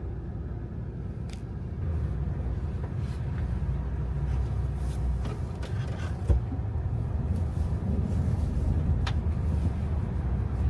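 Steady low rumble of a car driving on the road, with a few faint ticks and a sharp knock about six seconds in.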